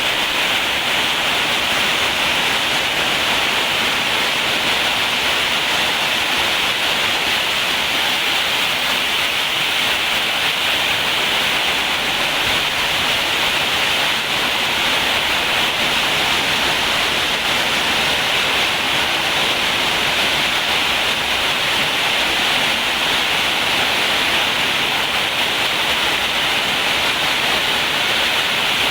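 Rain falling in a steady, loud, even hiss, with no separate hits standing out.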